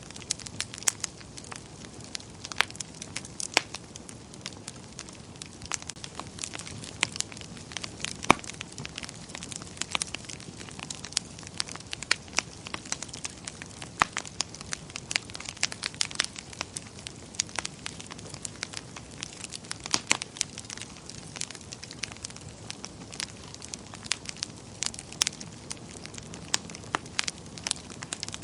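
Wood fire burning in a fireplace, with irregular sharp crackles and pops, several a second, over a steady low rush of flames.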